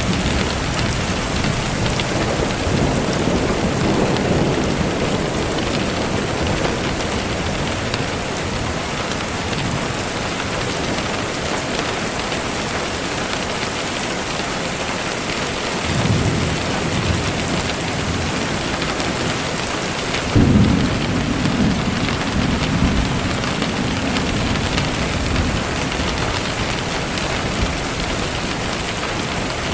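Steady rainfall with low rolls of thunder; a sudden thunderclap about twenty seconds in is the loudest moment and rumbles away over several seconds.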